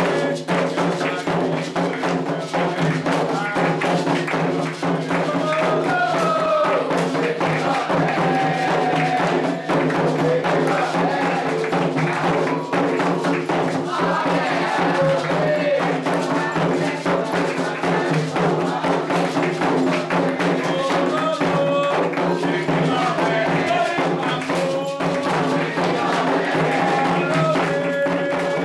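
Candomblé sacred music: atabaque hand drums and a struck bell keep a dense, fast rhythm under voices singing a chant for the orixá Oxóssi.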